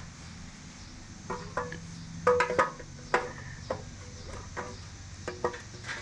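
Light metal clinks and taps of hand work on a go-kart frame and its parts, scattered one to a few at a time, some with a short ringing tone.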